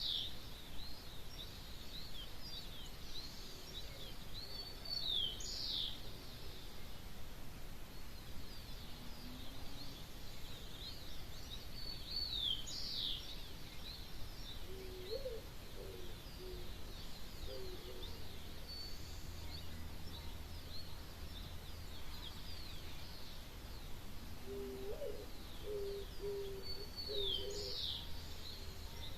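Several wild birds singing and chirping at dawn, with one bird repeating a loud, quickly falling phrase every several seconds. A lower-pitched call comes in short runs twice in the second half, over a steady low background rumble.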